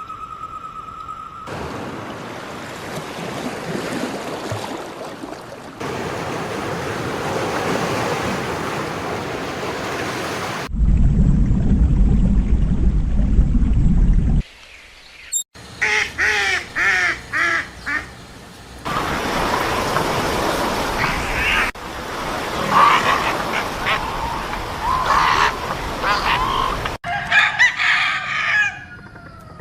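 A run of short animal-sound recordings joined by abrupt cuts: stretches of steady noise, a few seconds of deep rumble, then poultry calling in repeated short bursts.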